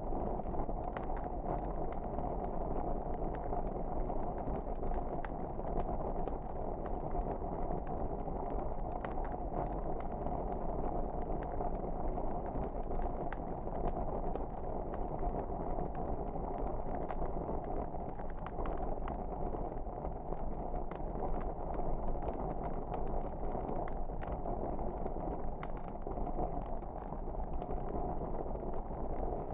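Wood fire burning in a fireplace: a steady low rush of flame with frequent small crackles and pops scattered throughout.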